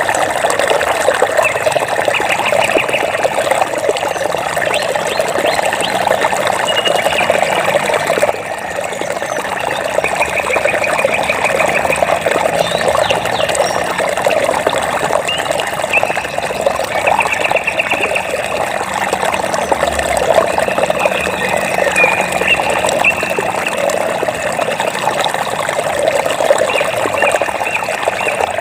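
Water flowing and trickling steadily, with short, rapid, high trills repeating every few seconds over it.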